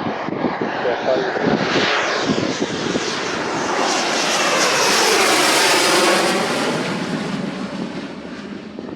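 Panavia Tornado GR4 jet's twin RB199 engines passing on approach: the jet noise swells to its loudest about five to six seconds in, with a sweeping, phasing quality as it goes by, then fades away near the end.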